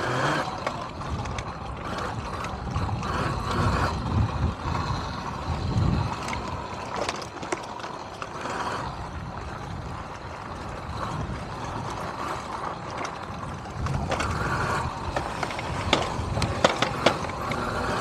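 Electric dirt bike being ridden over rough ground: wind rumbling on the microphone, with the bike's chain and frame rattling and clicking. A few sharp knocks come near the end.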